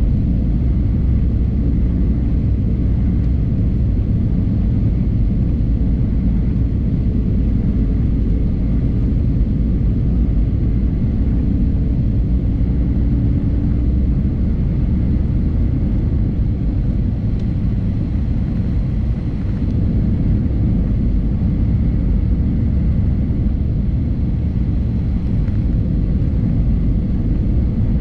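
Cabin noise inside an Airbus A320neo on approach: the steady deep rumble of airflow and its Pratt & Whitney geared turbofan engines, with a faint steady whine above it.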